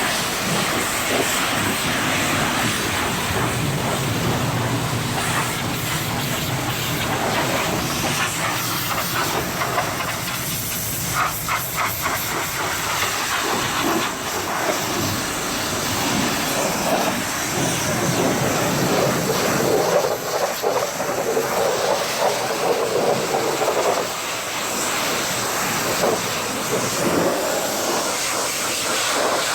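Pressure washer wand spraying against a truck's body: a steady hiss of high-pressure water whose tone and loudness shift as the spray moves over different surfaces.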